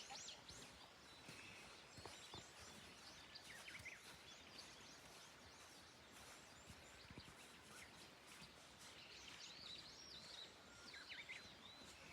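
Faint songbirds calling and chirping now and then over a low steady hiss, with short arching and rising-falling notes bunched near the start, about a third of the way in, and again near the end.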